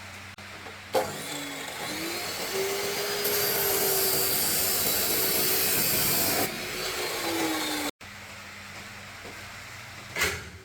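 A power tool's motor spinning up with a rising whine, running with a loud harsh hiss for about three seconds in the middle, then winding down. A single sharp knock near the end.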